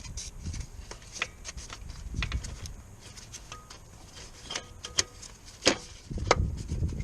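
Scattered clicks and knocks of metal tools and car parts being handled, over a low rumble that grows louder about six seconds in.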